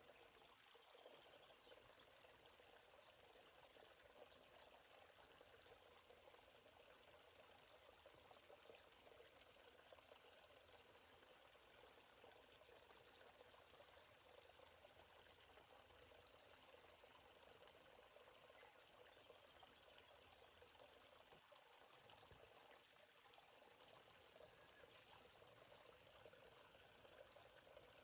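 A steady, high-pitched chorus of insects such as crickets, with the faint murmur of a flowing stream underneath.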